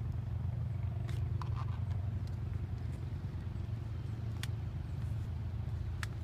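Steady low rumble of a distant diesel freight train approaching, with a few faint chirps and clicks over it.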